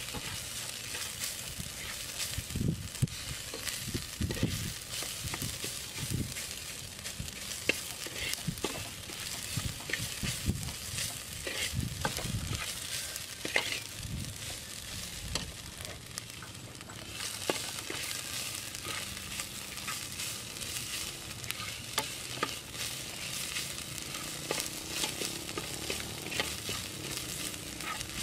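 Food frying in a metal pot with a steady sizzle, stirred with a metal spatula that scrapes and clicks against the pot.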